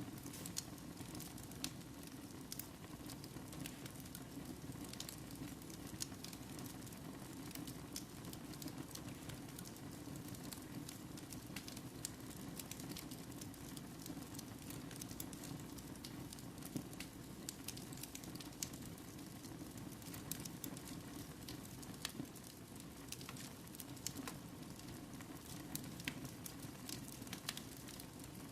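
Fire burning in a fireplace, crackling with frequent scattered sharp pops over a steady hiss.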